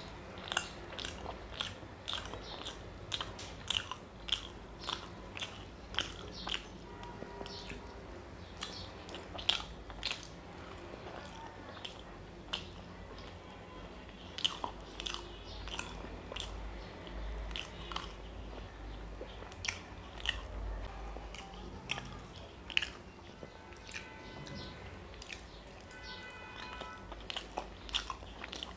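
Close-up chewing and wet mouth sounds of someone eating soft, syrup-soaked Bengali sweets (a gulab jamun-style lal jam and a white rasgulla-type sweet), with frequent sharp smacking clicks at an irregular pace.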